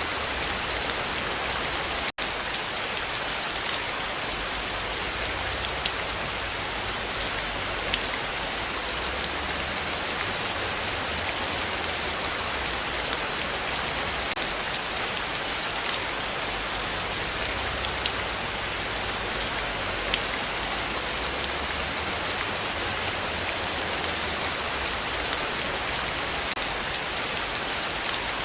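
Heavy rain falling steadily, a dense even hiss with many small drop ticks. A momentary dropout about two seconds in.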